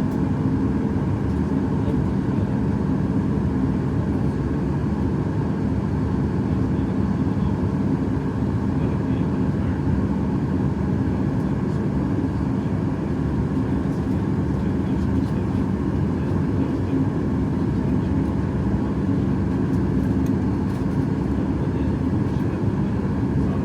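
Steady cabin noise of a Boeing 737 MAX 8 airliner heard from inside the passenger cabin: the even roar of its CFM LEAP-1B turbofan engines and airflow, with a few steady hum tones and no change in pitch or loudness.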